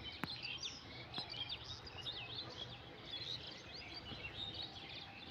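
Several small birds chirping and twittering over a faint steady outdoor background hiss, with a single sharp click just after the start.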